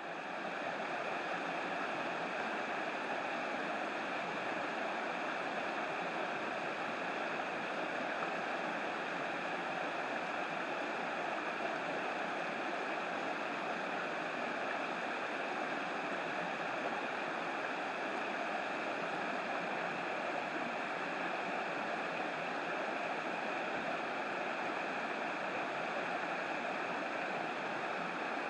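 Steady rain falling on a flowing river: an even, unbroken rush of water.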